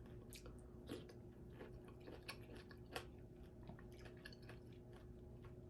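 Faint chewing of a mouthful of fruit cereal in coconut water, heard as scattered small wet clicks and crunches.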